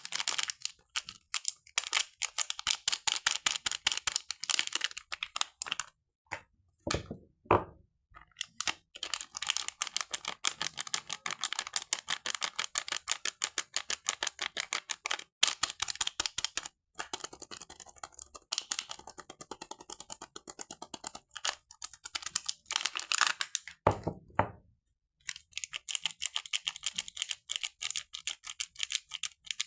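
Soap packaging being handled and unwrapped: dense runs of rapid, crisp tapping and crackling, broken by short pauses, with two louder, deeper sounds about seven and twenty-four seconds in.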